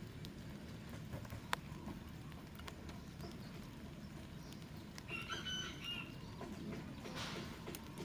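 A rooster crows once, briefly, about five seconds in, over a steady low rushing background. A single sharp click sounds about a second and a half in.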